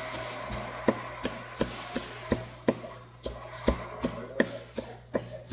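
Knife chopping bone-in flounder into thin slices on a cutting board, sharp regular strokes about three a second, over a steady low hum.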